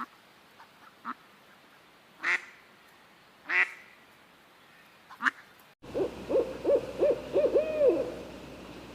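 Bird calls: a few short, separate calls spaced a second or so apart, then a quick run of about eight low, arched notes, roughly four a second, lasting about two seconds.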